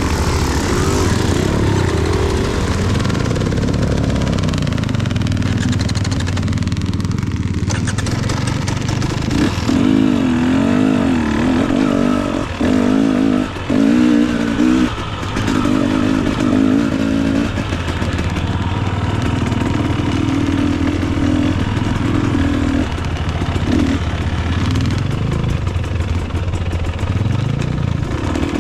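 Dirt bike engine running at low revs, the throttle worked on and off so the engine note wavers rapidly up and down through the middle stretch, with a few short knocks.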